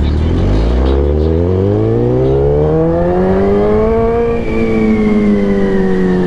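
Sportbike engine accelerating: its pitch rises steadily for about four seconds, then eases slightly down as the bike settles.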